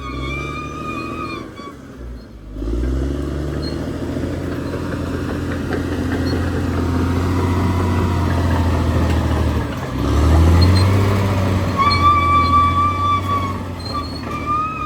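Caterpillar D6R XL bulldozer's diesel engine working under load. It dips about two seconds in, then revs back up, and revs up again about ten seconds in. A high, wavering whine sounds over it at the start and again near the end.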